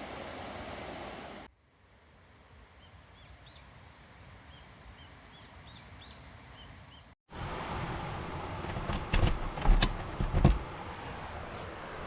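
Small birds chirping over a quiet outdoor background, then, after a cut, several sharp knocks and thumps about two to three seconds from the end.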